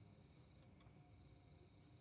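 Near silence: faint room tone with a thin, steady high-pitched pulsing tone, a few pulses a second.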